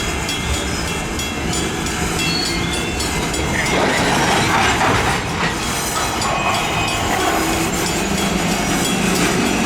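Canadian National diesel freight train rolling slowly on the rails, its wheels clacking over the track and its locomotive engines running steadily as it slows to stop. A louder rush of noise rises about four seconds in and fades by about six seconds.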